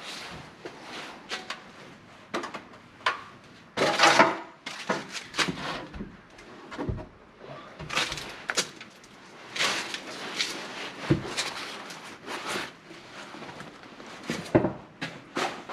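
Pine boards and wooden shelf supports being handled and fitted into place: irregular wooden knocks, clatters and scraping, with a longer scrape about four seconds in.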